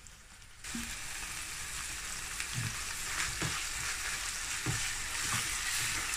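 Minced chicken and onions sizzling in a non-stick frying pan while a wooden spatula stirs them, knocking and scraping against the pan several times. The sizzle starts about a second in; the mince is frying until its own water cooks off.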